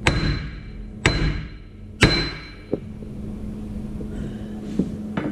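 A hammer striking steel: three hard, ringing blows about a second apart, then a few lighter knocks, over a steady low hum.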